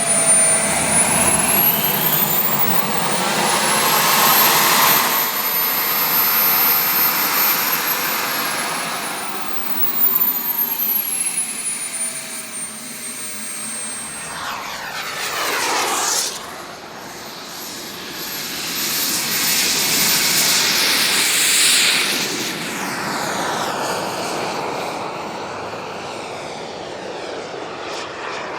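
Gas-turbine engines of two large RC jets flying past several times. Their high whine falls in pitch as each pass goes by, with a close sweeping pass about halfway through.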